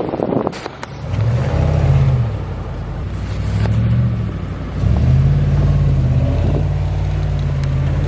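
A vehicle engine comes in about a second in, revs up and down twice, then runs steadily. Wind on the microphone near the start.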